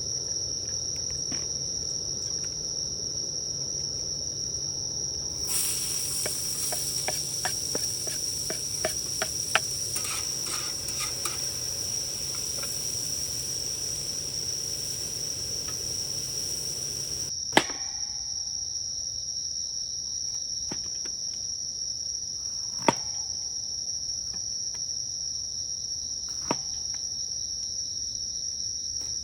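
Crickets chirring in one steady high tone throughout. From about five seconds in to about seventeen seconds in, a hiss with a run of small clicks sits over it. A few sharp knocks come singly later on.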